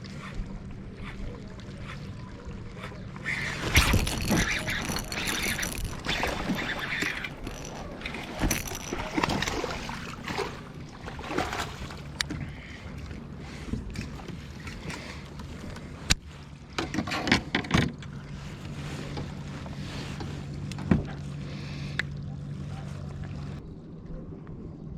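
Wind and water noise around a fishing kayak, with scattered knocks and clicks from gear being handled on the boat and a faint steady low hum underneath. The wind noise is strongest over several seconds a few seconds in, and a cluster of sharp knocks comes about two thirds of the way through.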